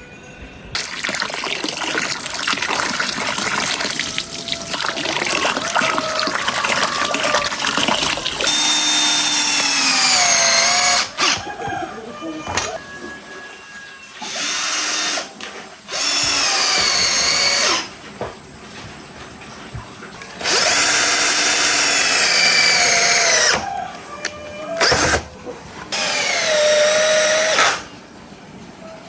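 Handheld power drill run in repeated bursts: first a long continuous run of several seconds, then shorter runs of one to three seconds each, with the motor's pitch sagging and recovering as the bit meets load.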